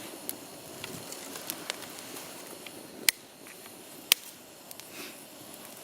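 Wood fire burning in a split dry log with fatwood kindling: crackling with scattered small snaps and two loud, sharp pops about three and four seconds in.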